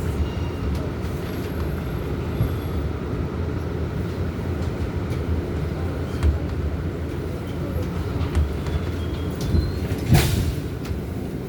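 An R188 subway train standing in the station with a steady low rumble from the train, and one short, loud burst of hiss about ten seconds in.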